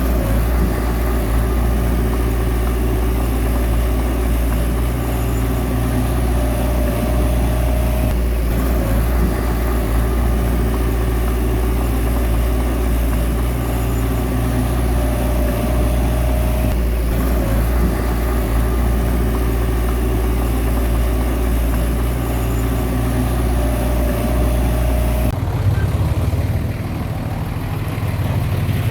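Heavy diesel engine of a bulldozer running steadily, with a higher whine that comes and goes every several seconds. Near the end the engine sound changes abruptly.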